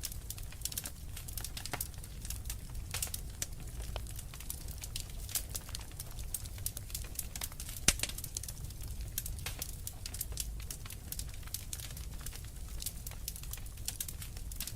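Wood fire crackling: a dense run of irregular sharp pops and snaps over a steady low rumble, with one louder pop about eight seconds in.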